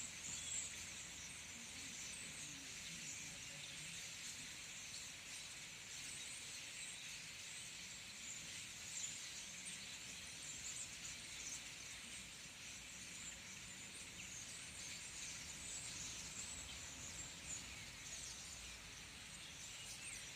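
A large flock of birds calling all at once: a dense, continuous chatter of many small high-pitched calls overlapping.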